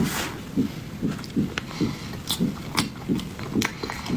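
Close-miked chewing of soft, sticky mochi: steady wet chews about two to three a second, with small mouth clicks and smacks between them.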